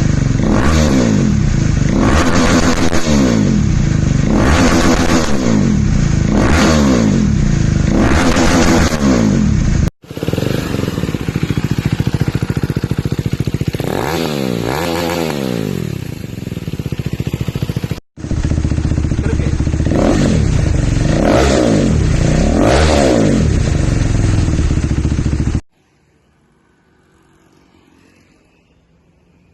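Motorcycle fitted with an aftermarket exhaust being revved in short throttle blips, the engine pitch climbing and dropping with each one, in three separate clips joined by abrupt cuts. The engine sound stops suddenly near the end, leaving near silence.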